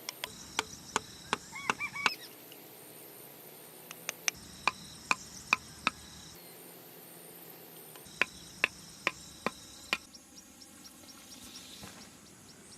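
Three runs of sharp blows from a hand tool striking hard material, like chopping, each run of five or six blows at about two to three a second, with short pauses between runs.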